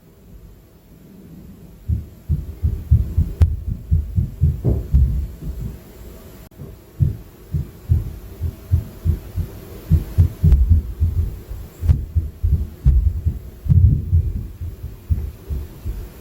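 Inter-floor impact noise: dull, low thuds from the apartment upstairs, coming through the ceiling. They start about two seconds in and come several a second in rapid, irregular runs, like heavy footsteps or running.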